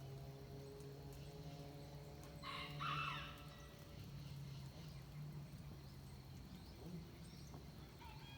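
Dawn forest soundscape: one loud, harsh bird call about two and a half seconds in, lasting under a second, over a faint steady low drone.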